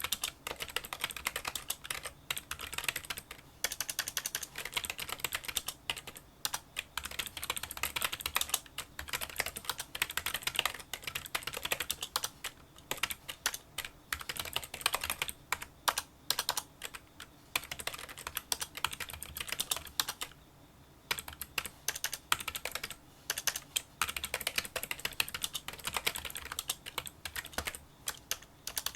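Fast, continuous touch typing on a Kinesis Freestyle Solo split keyboard with membrane key switches: a quick, even stream of small, fairly quiet clicking keystrokes. The typing pauses briefly about two-thirds of the way through, then resumes.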